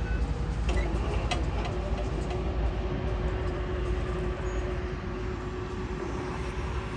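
BNSF coal train rolling past, a steady low rumble of the cars on the rails with a few clicks. A thin steady whine comes in about a second in.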